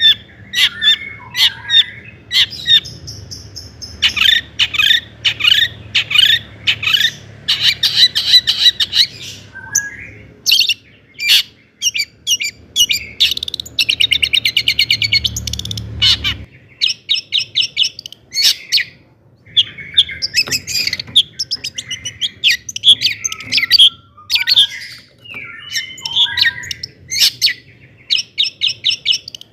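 Long-tailed shrike singing a loud, varied song of sharp chirps, slurred notes and a fast rattling trill about halfway through.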